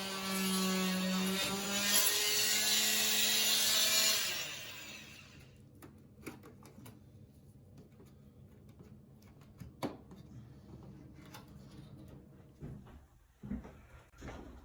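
A power tool's motor runs steadily for about four seconds, shifting pitch a couple of times, then winds down. Faint scattered clicks and knocks follow.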